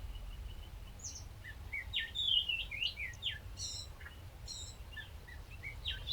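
A songbird chirping and singing: a faint high trill at first, then from about a second in a quick run of varied chirps and short whistled notes, over a steady low rumble.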